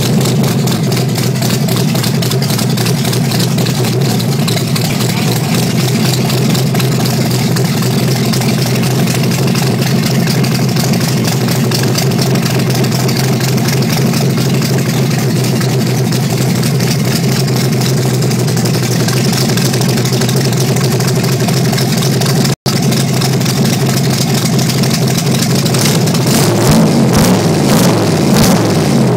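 Carbureted V8 in a 1931 coupe hot rod running at a loud, steady idle, blipped up in revs a couple of times near the end.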